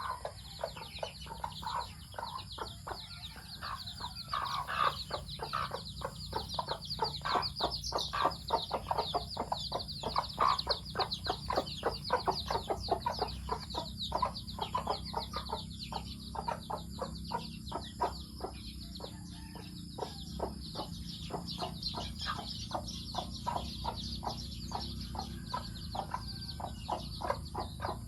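Chickens clucking in quick, short notes, several a second, with thin high chirps above them, over a steady low hum.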